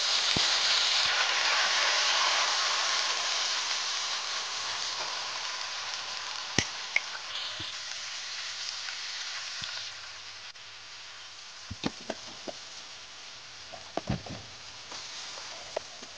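Onions and tomatoes frying in hot oil in a pan: a loud, even sizzle that slowly dies down and drops lower about ten seconds in. A wooden spatula knocks and scrapes against the pan now and then in the second half.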